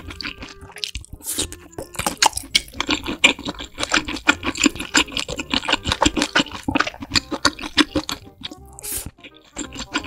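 Close-miked ASMR eating: chewing with crunchy, wet mouth sounds in a rapid, irregular run of clicks and crackles, easing briefly near the end.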